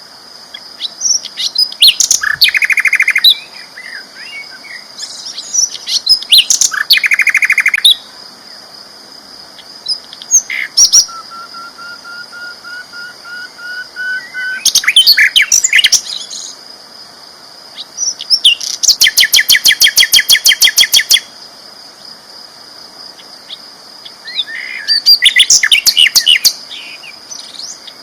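A sikatan londo flycatcher singing loud, prolific song: repeated bursts of fast chirps and rapid trills, the longest about two seconds, with a long, slowly rising thin whistle in the middle. A steady high-pitched tone runs underneath throughout.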